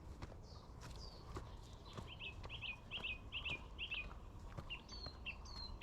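Wild birds calling: a quick run of about six short chirps about two seconds in, followed by a few more, with higher hooked whistle notes near the start and near the end. Faint scattered steps on the trail sound underneath.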